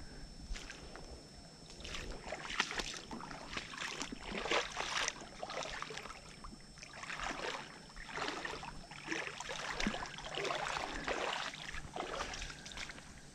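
Creek water sloshing and splashing in irregular bursts, as of someone wading through a shallow creek.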